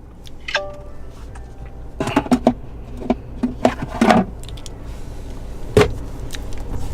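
Clicks and knocks of the plastic center-console armrest tray and storage lid being handled, with a sharp click about six seconds in, over a steady low hum.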